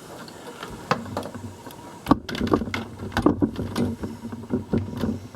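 Irregular clicks and light knocks of hand work with small wires and tools, one sharp knock about two seconds in, over a faint low rumble.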